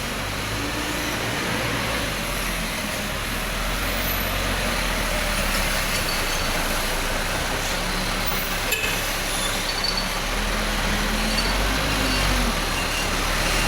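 Forklift engine running steadily with a low hum, with a single sharp click about nine seconds in.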